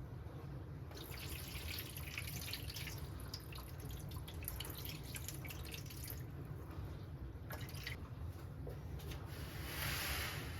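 Kitchen tap running into a sink with water splashing, stopping for a moment partway through and running again near the end.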